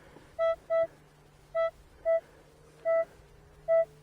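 Metal detector sounding a target tone: six short beeps, all at one pitch, at uneven spacing as the coil is swept back and forth over a buried metal target.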